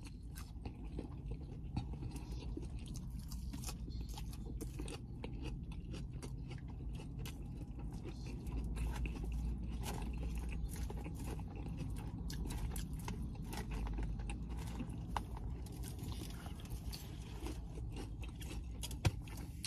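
A person chewing and crunching salad greens and chicken close to the microphone, with small wet clicks of the mouth and light scrapes of a fork in a plastic salad bowl, over a low steady hum.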